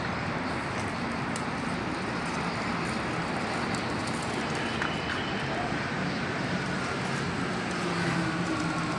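Steady outdoor background noise, a continuous hiss and rumble, with a few faint bird chirps over it in the second half.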